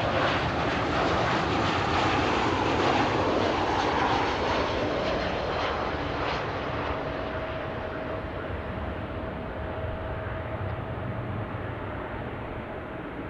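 Aircraft engine noise from a passing plane, loudest over the first few seconds, then fading steadily as it moves away and its high hiss dies off. A faint steady whine is heard through the middle.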